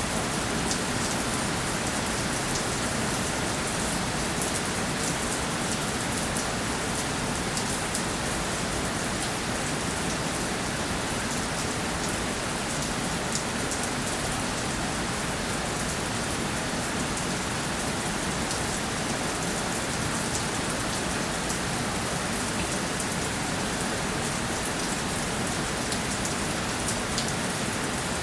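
Steady rainfall, drops hitting a surface with a constant hiss and fine pattering ticks.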